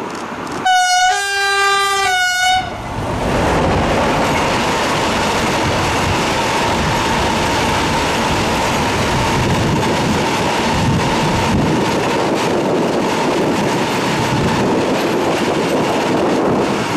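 Freight train locomotive horn sounding a short high–low–high blast about a second in. Then the train of hopper wagons runs past close by: a loud steady rumble of wheels on rail with clacking over the joints and a faint steady whine.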